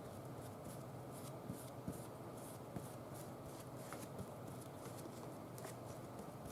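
Faint rustling and brushing of paper being handled and pressed down, soft strokes repeating about three times a second with a few small clicks, over a steady low hum.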